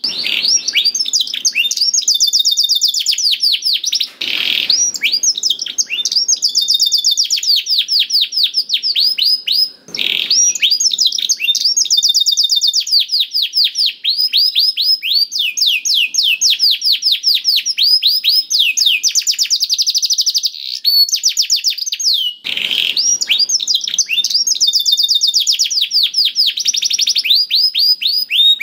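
Domestic canary singing a long, unbroken song of fast, rapidly repeated high trills, with brief breaks about four, ten and twenty-two seconds in.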